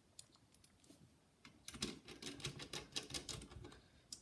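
Faint rapid clicks and taps of small plastic and metal laptop parts being handled and worked on, a busy run of them starting about a second and a half in.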